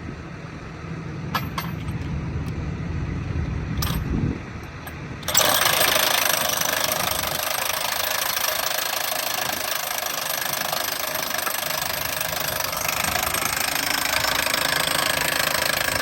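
A low engine rumble with a few clicks. About five seconds in, a power impact wrench on the crossing's track bolts starts suddenly and runs steadily for about eleven seconds, then cuts off sharply.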